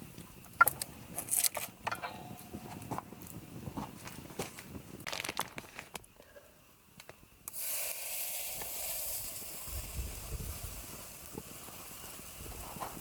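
Scattered clicks and knocks of things being handled, then a little over halfway through a steady hiss starts suddenly and keeps going.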